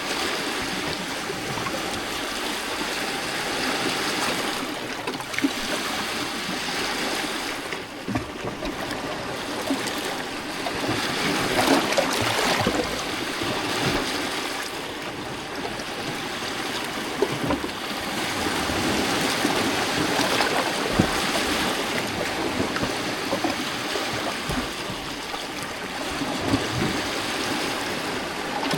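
Small lake waves lapping and splashing against rocks along the shore, a steady wash of water with gurgles and trickles that swells and eases every few seconds.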